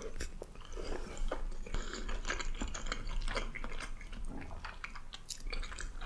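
A person chewing a mouthful of soft, cheesy baked pasta, with many small mouth clicks and smacks.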